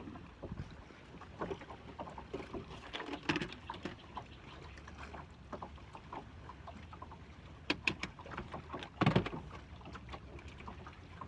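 Scattered clicks, knocks and light clatter of tackle being handled aboard a small fishing boat over a low steady rumble, with a sharp cluster of clicks near the end and one louder knock about nine seconds in.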